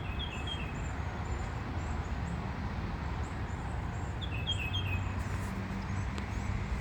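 Small birds chirping: a short phrase of three quick notes, heard twice about four seconds apart, with faint high chirps from other birds, over a steady low rumble.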